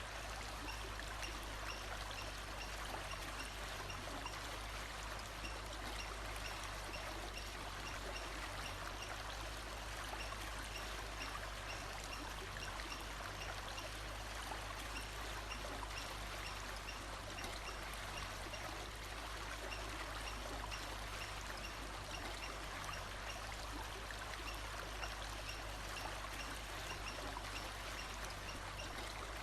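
Steady rush of a flowing stream, unchanging throughout, with faint high chirps repeating at an even pace.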